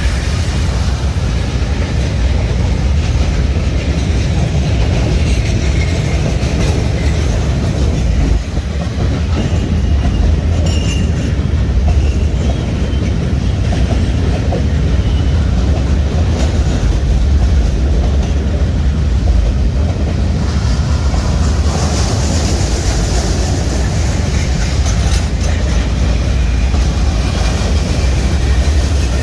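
Train running along the track: a steady, heavy low rumble of wheels on rails.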